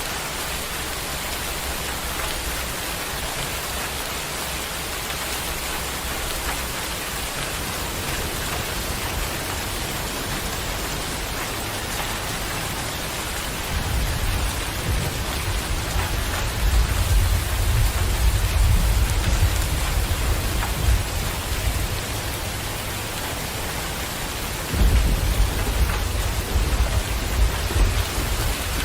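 Steady heavy rain hissing, with long low rolls of thunder rumbling in about a third of the way through and again near the end.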